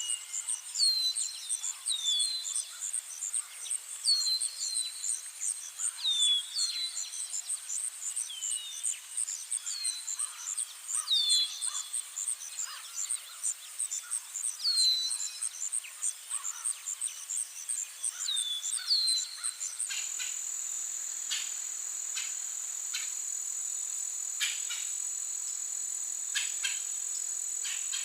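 High, rapidly pulsing insect chirping, like crickets, with a bird repeating short falling call notes over it. About two-thirds of the way through the sound switches abruptly to a steady, unbroken high insect trill with a few scattered clicks.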